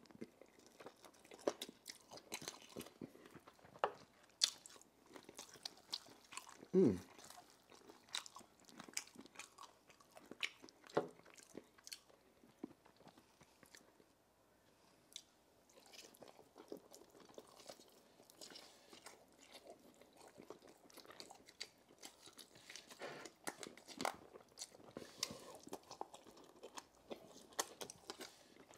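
Close-up chewing and crunching of chicken wing and bone, with many sharp crunches and wet mouth sounds in an irregular run. About seven seconds in comes a brief low sound that slides down in pitch, the loudest moment.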